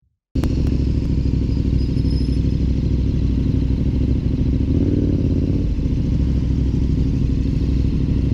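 KTM 1190 Adventure's V-twin engine running at low speed, heard from the rider's helmet camera; it starts abruptly about a third of a second in and then holds steady.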